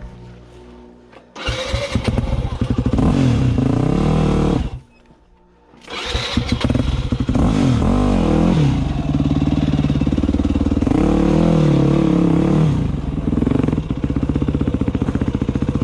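Small dirt bike's engine started and blipped up and down, then it cuts out about five seconds in. It starts again about a second later, revs a few times, then settles into a steady, even idle.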